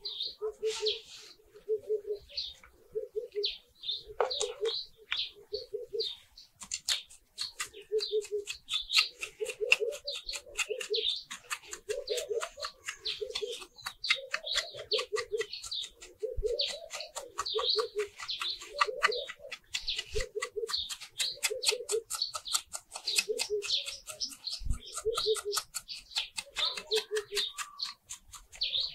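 Birds calling outdoors: a low call repeated about once a second, with higher chirps over it. From about seven seconds in, a fast ticking chatter joins them.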